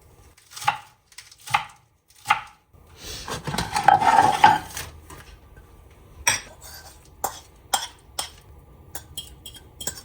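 Kitchen utensils knocking and clinking against dishes, a string of separate sharp knocks with a longer rough scraping stretch about three to five seconds in.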